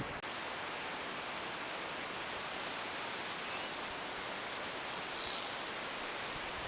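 Steady, even outdoor background hiss with no distinct events, with two faint short high chirps in the second half.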